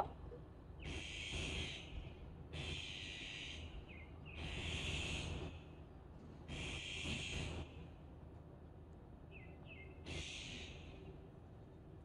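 Harsh, rasping bird calls, each about a second long, repeated every second and a half to two seconds, with a few faint short chirps in between.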